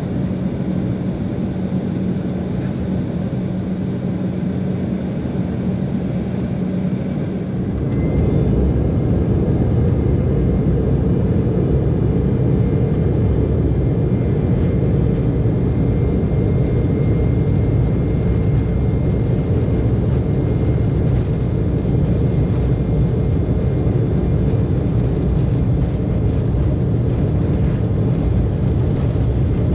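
Embraer 190 jet's turbofan engines heard from inside the cabin. A steady hum about eight seconds in steps up to a louder, dense rumble with a thin high whine, which holds steady: the engines going to takeoff power for the takeoff roll.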